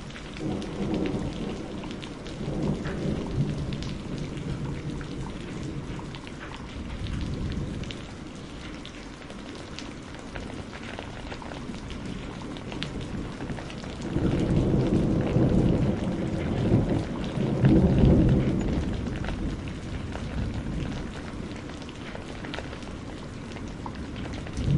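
Heavy rain pouring off a roof edge and pattering steadily. Two long low rolls of thunder sound over it, one near the start and a louder one about halfway through.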